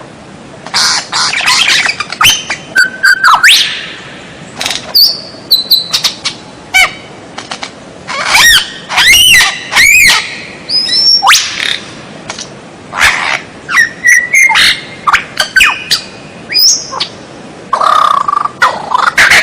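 White-rumped shama singing a varied song of short phrases: clear whistles, quick up-and-down sweeping notes and harsh clicking notes, in bursts with short pauses between them.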